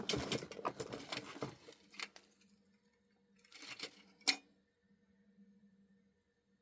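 Small metal odds and ends clinking and rattling as they are handled and sorted in a small junk box: a dense run of clicks for about two seconds, then a few more a little past the middle ending in one sharp click.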